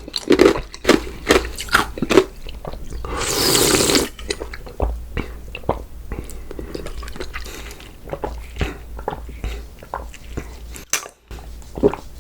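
Close-miked mouth sounds of a person eating: wet chewing and crunching with quick clicks, and about three seconds in a second-long slurp.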